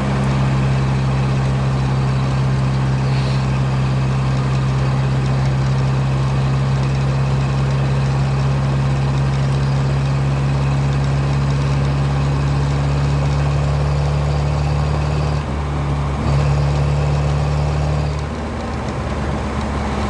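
Inline-four engine of a VAZ 2107 (Zhiguli) running steadily under way, heard from inside the cabin with road noise. The engine note dips briefly about fifteen seconds in and changes again a few seconds later.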